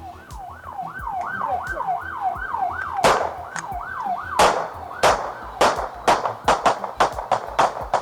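Emergency-vehicle siren on a fast yelp, wailing up and down about three times a second. About three seconds in a run of sharp bangs begins, coming quicker toward the end as the siren drops away.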